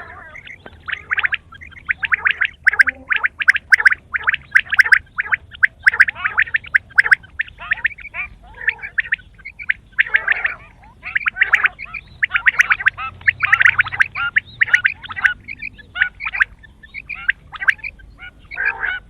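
Quail calling in fast, chattering runs of short notes, one run after another with brief pauses a little before halfway and again toward the end.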